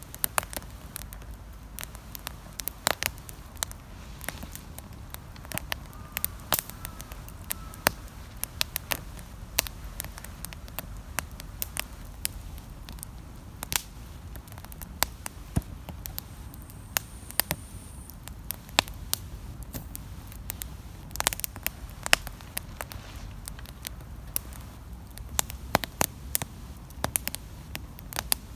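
Wood campfire crackling, with irregular sharp pops and snaps several times a second over a low steady rumble.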